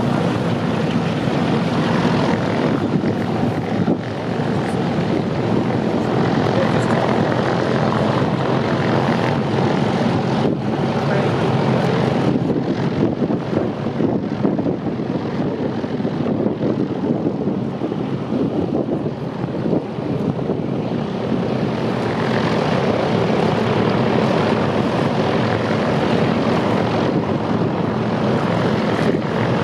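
Douglas Dakota (DC-3/C-47) twin radial piston engines and propellers running steadily and loudly.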